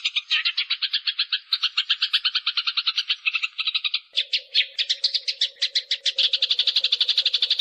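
Eurasian tree sparrows fighting, a continuous rapid chatter of harsh chirps at about eight to ten a second. About four seconds in the chatter shifts higher and denser, with a faint steady hum underneath.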